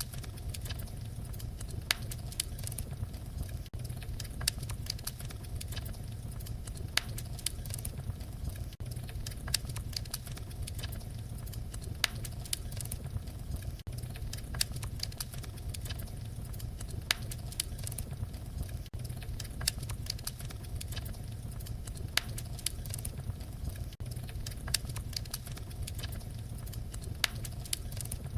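Fireplace fire crackling: a steady low rumble of flames with frequent sharp pops and snaps, a louder pop every second or two.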